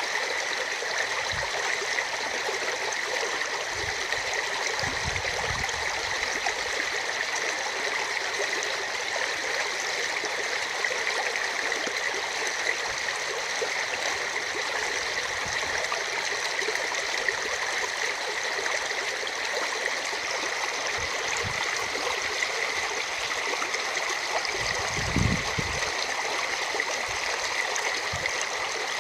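Rain-swollen river water rushing steadily over its bed, with a few brief low bumps.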